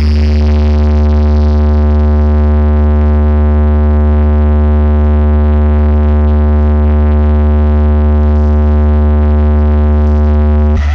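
One deep electronic synth tone held steady at full volume, heavy in the bass with a long row of even overtones, played loud over a sound system as part of a sound check.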